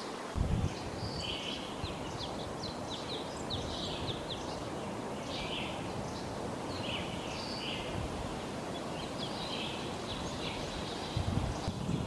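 Several wild birds chirping and calling in short, repeated notes over a steady background hiss, with a low thump about half a second in and low rumbling near the end.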